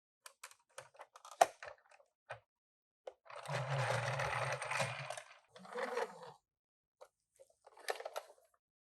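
Hands handling small die-cast toy cars and their plastic and cardboard packaging: scattered light clicks and taps, one sharp click early on, and a scraping sound lasting almost two seconds in the middle, with a low rumble under it.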